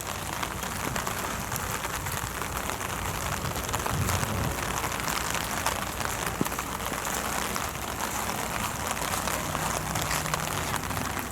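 Steady rain from a passing typhoon, falling as an even hiss dotted with many single drop hits.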